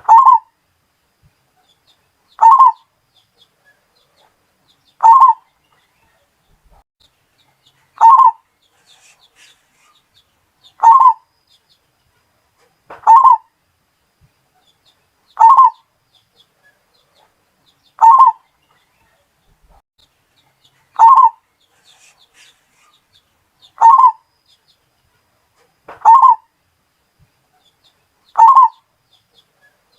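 Zebra dove (Bali perkutut) cooing: a short burst of quick cooing notes about every two and a half seconds, twelve times in a steady, repeating rhythm.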